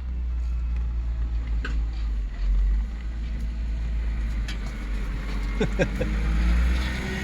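A vehicle's engine running with a steady low rumble while driving slowly over rough ground. There are a few scattered knocks and rattles, with a cluster of creaks and knocks near the end.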